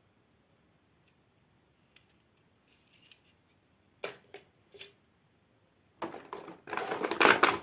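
Hard plastic toy handled by hand: a few light clicks, then sharper clacks about four seconds in, and a louder dense stretch of rustling and rattling over the last second and a half.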